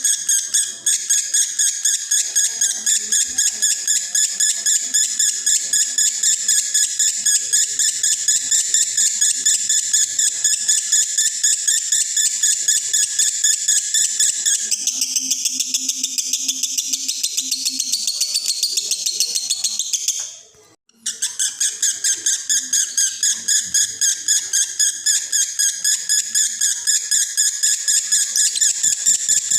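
Male lovebird in breeding condition singing a long unbroken 'konslet' chatter of rapid shrill chirps, about four a second. The song shifts in tone about fifteen seconds in and breaks off for half a second about twenty seconds in before running on.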